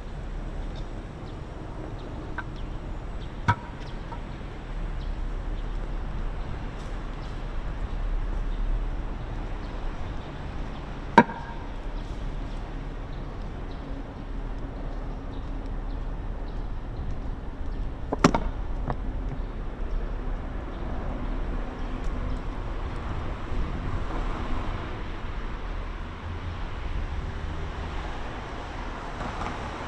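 Steady background rumble of city traffic, with three short sharp knocks spaced about seven seconds apart.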